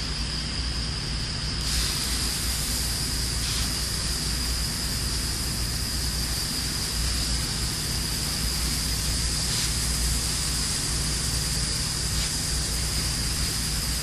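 VapoJet high-pressure water-vapour cutting jet hissing steadily over a low machine hum, with a constant high-pitched whine. The hiss grows brighter about two seconds in.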